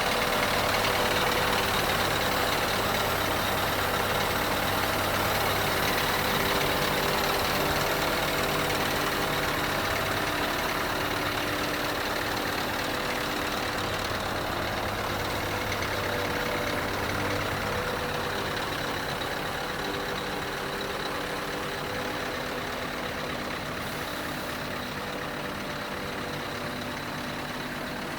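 Scania R500 truck's V8 diesel engine idling steadily.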